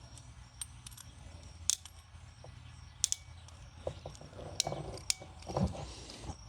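Scattered sharp metallic clicks and clinks from a ratcheting coax crimp tool and the small metal connector parts being handled, with some light rustling near the end.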